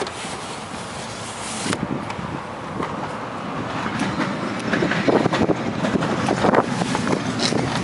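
Manual window winder on a 2008 Toyota Corolla door being cranked by hand, with irregular clicking and rattling that grows busier about halfway through.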